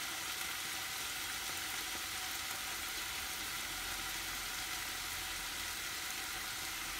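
Steady sizzling of diced meat and onions frying in a pot.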